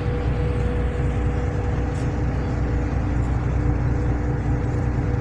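Car ferry's engines running: a steady low rumble with a constant droning hum.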